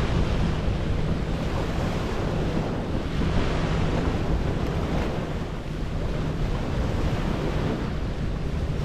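Small lake waves washing onto a pebbly shore in a steady wash that swells and eases, with wind buffeting the microphone.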